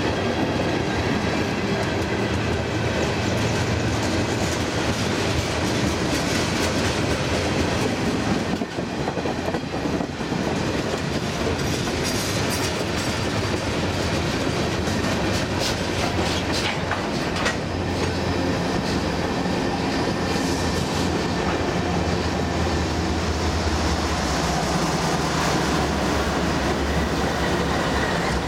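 CN freight train on the move, its diesel locomotives running with a steady low rumble. The wheels click and clack over rail joints, with a run of sharper clicks about halfway through.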